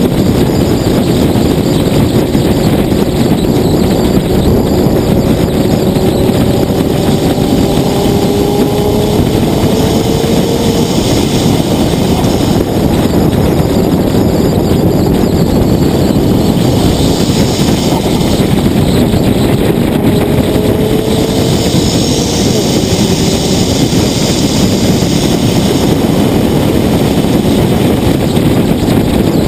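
Nissan GT-R R35's twin-turbo V6 running under a steady rush of road and wind noise at cruising speed. Its pitch rises slowly twice as the car gathers speed.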